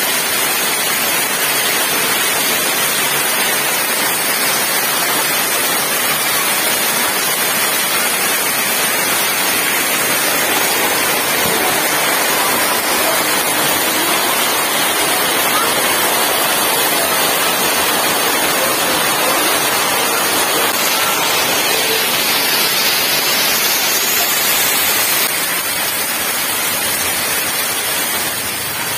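Heavy downpour: rain pouring off a roof edge in sheets and a thick stream of runoff splashing onto the ground, a steady loud rushing hiss that eases a little near the end.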